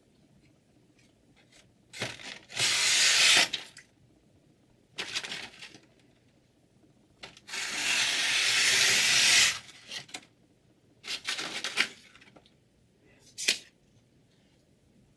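A chef knife blade drawn in five dry scraping strokes of differing length, the longest about two seconds and the last very short.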